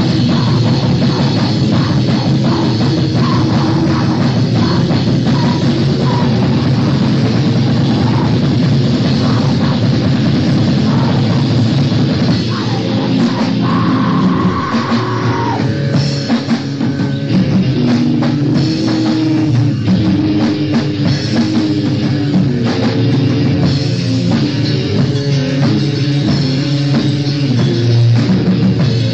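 Fast, loud hardcore punk recording: distorted electric guitars and bass over a driving drum kit.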